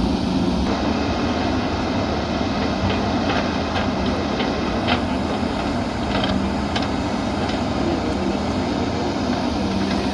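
Diesel engine of a JCB backhoe loader running steadily under work, with scattered short metallic knocks and clinks from about three seconds in.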